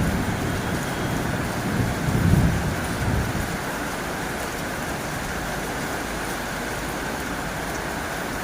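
Heavy rain falling on a tin roof, a steady dense patter. Over the first three seconds a low rumble swells and fades away.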